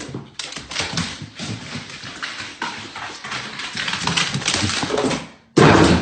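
Animal sounds with a rapid, irregular patter of clicks and scuffles; a loud rush of noise cuts in near the end.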